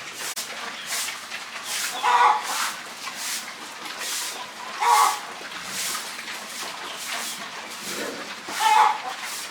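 Farm animals calling, with a louder pitched call about every three seconds, over a steady scatter of short scratchy sounds.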